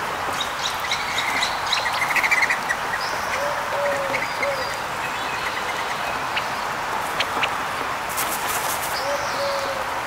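Small birds chirping and calling, with a run of quick chirps in the first few seconds and a few whistled notes later, over steady background noise.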